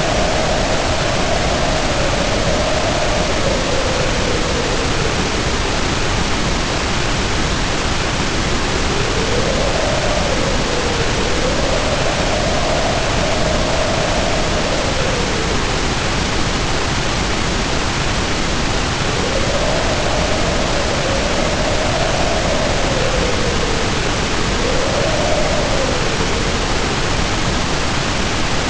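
Heavy rain pouring down in a steady hiss, with wind howling over it in a wavering tone that rises and falls every few seconds. The howl drops away for a few seconds past the middle, then returns.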